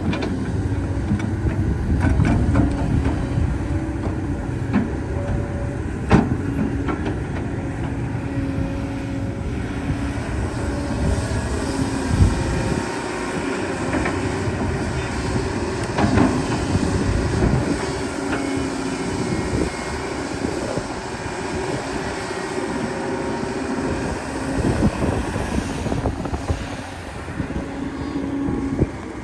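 Excavator working: its diesel engine runs steadily under load, with a few sharp metallic clanks.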